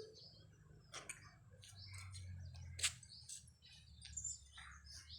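Small birds chirping: many short, scattered calls over a faint low rumble, with one sharp click about three seconds in.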